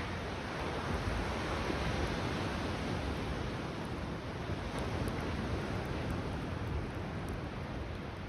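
Ocean waves washing onto a beach, with a steady surf noise that swells slightly about a second in. A few faint crackles from the campfire come through on top.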